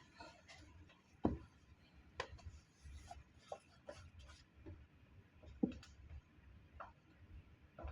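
Faint, scattered small clicks and light knocks over a low steady rumble, with two louder thumps about a second in and just past the middle.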